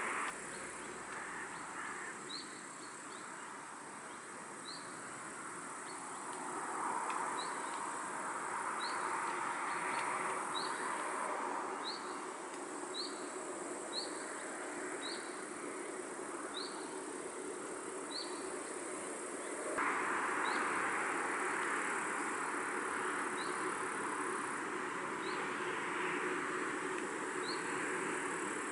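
Countryside pond ambience: wind in the willows rising and falling, under a steady high insect drone and a short high chirp repeated about once a second. The wind noise steps up suddenly about two-thirds of the way through.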